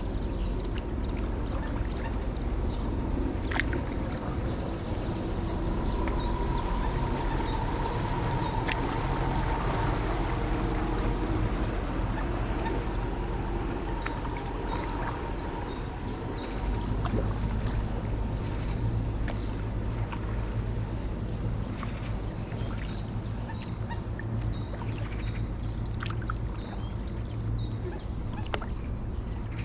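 Paddle strokes and water splashing and trickling around a stand-up paddleboard, over a low steady rumble. Runs of quick high ticks come and go.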